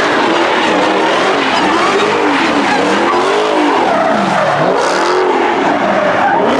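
A car's tyres squealing as it slides under power, with the squeal's pitch swinging up and down again and again over a loud engine.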